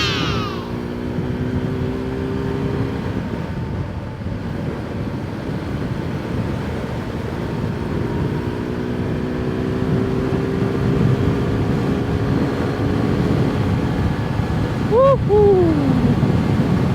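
Suzuki Gixxer 250 motorcycle engine running steadily on the move, its pitch drifting slowly with speed, under a constant rush of wind and road noise picked up by a mic inside the rider's helmet. A short rising-and-falling tone sounds near the end.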